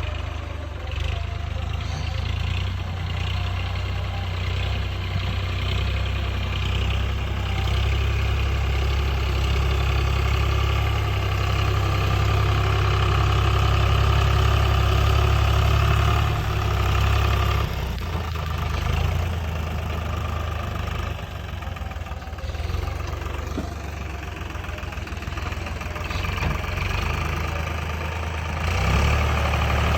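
Tractor engine running steadily with a low drone. Its level drops about two-thirds of the way through and picks up again near the end.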